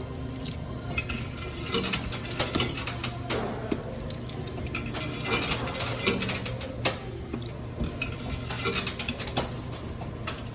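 Quarters clinking and clattering in a coin pusher arcade machine as coins are dropped in and tumble onto the metal shelves, many irregular sharp metallic clicks over a steady low hum.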